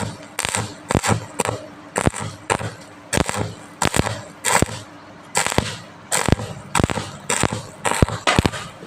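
Sharp metal-on-metal strikes repeated about twice a second at an uneven pace, each followed by a short crackling tail, from welding work on steel pipe.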